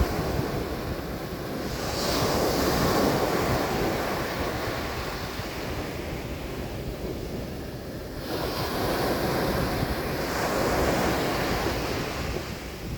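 Mediterranean Sea waves breaking on a beach: a continuous wash of surf that swells twice, about two seconds in and again from about the ninth second, then falls back.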